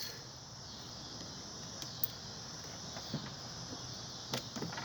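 Steady faint background hiss with a low hum, broken by a few small clicks and taps.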